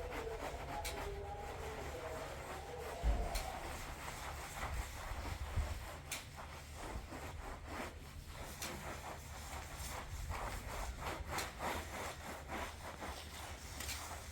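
Repeated rubbing or scraping strokes, a few a second, starting about four seconds in.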